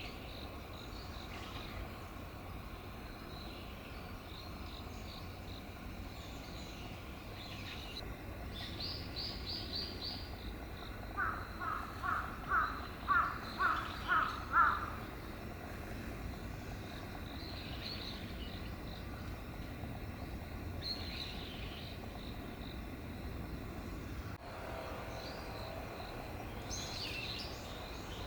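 Wild birds calling over a steady low background rumble. In the middle comes a run of about seven loud, evenly spaced calls that grow louder, and thinner high-pitched call notes come before and after it.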